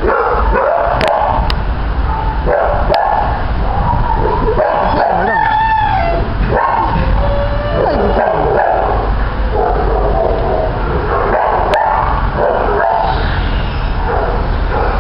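Shelter dogs barking and yipping over one another, calls following close on each other with no break.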